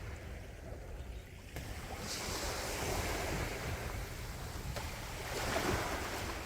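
Calm sea waves washing in: a steady low rumble, with a hissing wash that swells about two seconds in and a second surge near the end.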